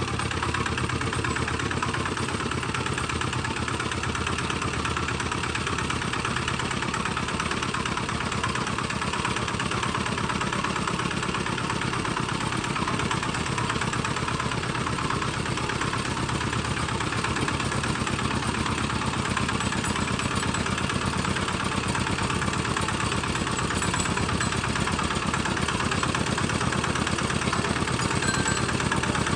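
Homemade tractor's engine running steadily at an even pace.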